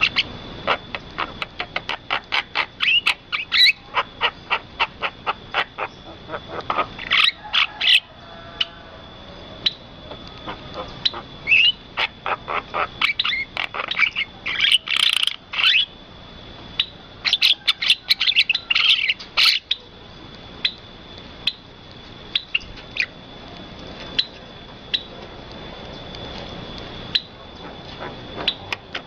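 Birds calling in quick runs of short, sharp chirps, the runs broken by brief pauses, over a steady thin high tone.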